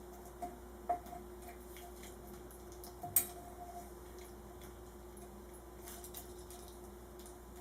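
A few small clicks and taps from hand work on ceiling fan switch wiring with a cutting tool, the sharpest about three seconds in, over a steady low hum.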